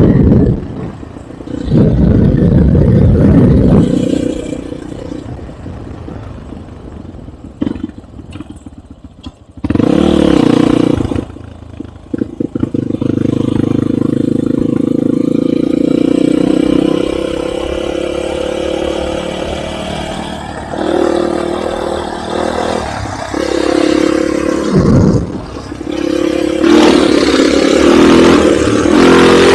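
Enduro motorcycle engine under way off-road, its pitch rising and falling as the throttle is opened and closed. There are loud revving surges near the start, about ten seconds in and near the end, with quieter, steadier running between them.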